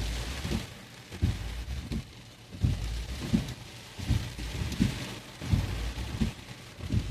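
Heavy rain drumming on a moving car, a steady hiss, with a regular low thump about every 0.7 s.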